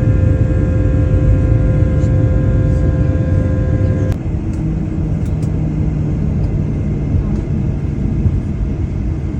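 A large engine running with a loud, steady low rumble and humming tones. The sound changes abruptly about four seconds in, and the higher tones drop away.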